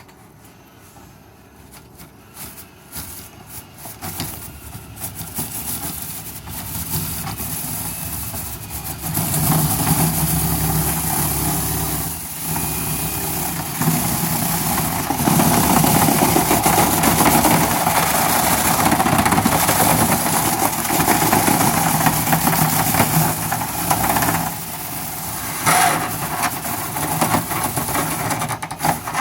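A motor running loudly and steadily, building up gradually over the first several seconds and growing louder about a third of the way in, with a brief dip and a sharp knock near the end.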